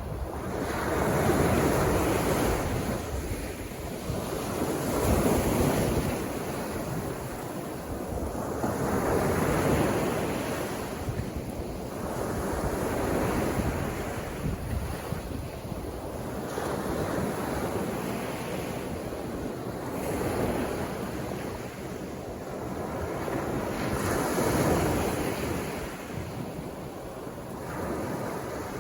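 Sea waves breaking and washing up a beach, the surf swelling and fading in a slow rhythm about every four seconds.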